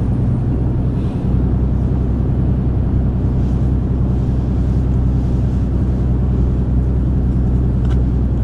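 Heavy truck driving along, heard from inside the cab: a steady low hum from the engine and driveline with road noise over it.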